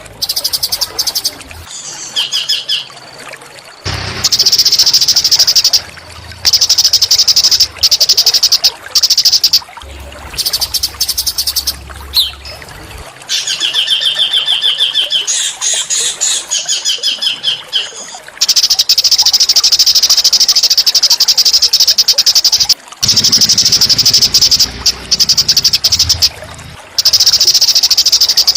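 Small songbirds' recorded song: rapid, high, buzzing trills in bursts of one to five seconds, with a few clearer whistled phrases about two seconds and thirteen seconds in.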